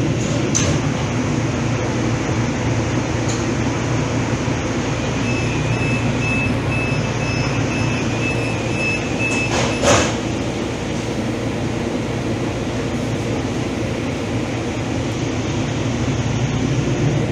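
Steady rumble of a Calgary Transit CTrain light-rail car in motion. A thin high tone sounds on and off for a few seconds, and a sharp knock comes about ten seconds in.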